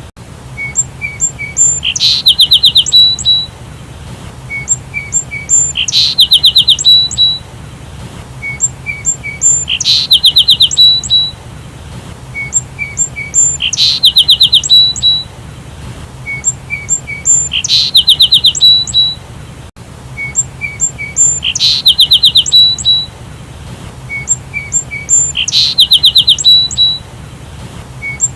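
Sparrow chirping, one recorded call phrase repeating about every four seconds: three short, softer chirps followed by a quick run of higher, louder chirps. A faint steady hum lies underneath.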